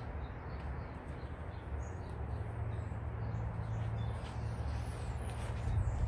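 Faint, scattered chirps of small birds, mostly in the second half, over a steady low rumble of outdoor background noise.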